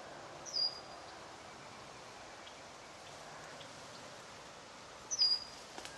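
Steady outdoor background hiss, with a short high chirp heard twice, about half a second in and again about five seconds in.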